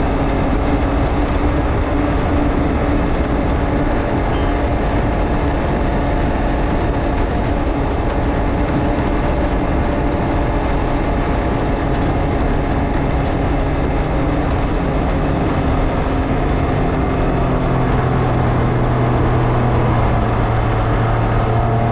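Can-Am Ryker 900 Sport's three-cylinder Rotax engine running steadily at road speed, mixed with wind and road noise heard from behind the windshield; the engine note drops a little about three-quarters of the way through.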